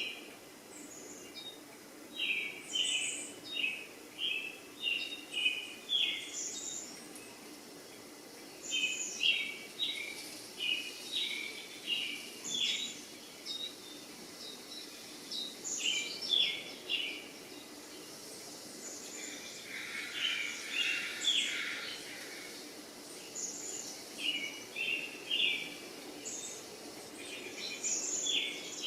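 Small birds chirping: short phrases of quick, high notes repeated every second or two, with a denser burst of calls about two-thirds of the way through, over faint steady background noise.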